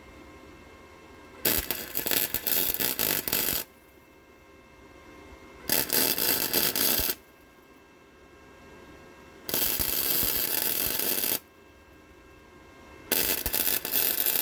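Electric welder laying four short tack welds on an exhaust tip, each a crackling, sizzling arc of one to two seconds with pauses between. The welder is set too hot and the thin exhaust metal is melting.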